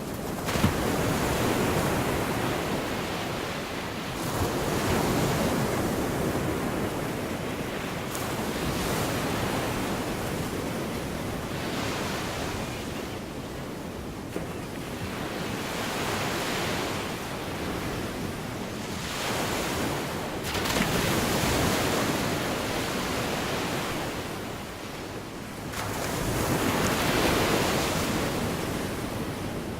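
Small Gulf of Mexico waves breaking and washing on a sandy beach, the surf swelling and falling away every few seconds.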